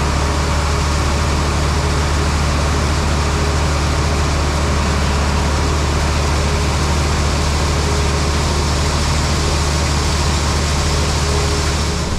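Farm machinery diesel engine running steadily at constant speed under a loud, even rushing noise, unchanging until it cuts off abruptly at the end.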